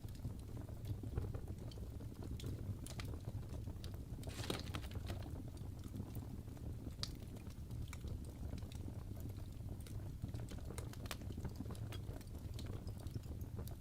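Wood fire burning in a fireplace, crackling: irregular sharp pops and snaps over a steady low rumble of the flames, with a brief flurry of crackles about four and a half seconds in.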